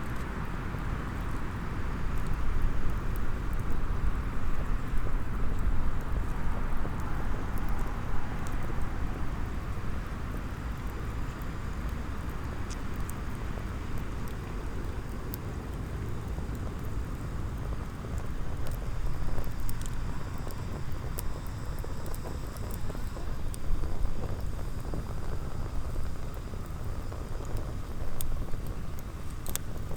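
Small wood campfire crackling, with scattered sharp pops, over a steady low rumble of wind or surf.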